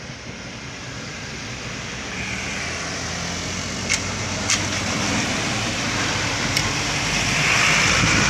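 Truck engine and tyre noise growing steadily louder as the truck approaches, with three short sharp clicks in the middle.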